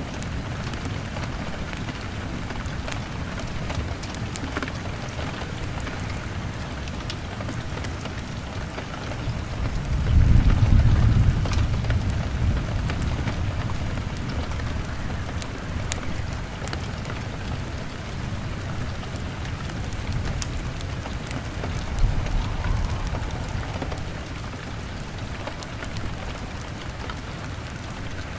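Steady rain on a window with a wood fire crackling in scattered sharp pops. A low rumble of thunder swells about ten seconds in and fades over a few seconds, with a shorter, fainter rumble near the end.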